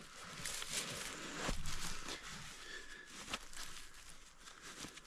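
Rustling, scuffing and scattered knocks of rubber-and-neoprene knee boots being pulled on, with a low thump about one and a half seconds in.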